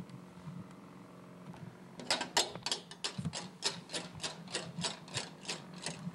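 A regular run of short scraping or crunching strokes, about three a second, starting about two seconds in over a low steady hum.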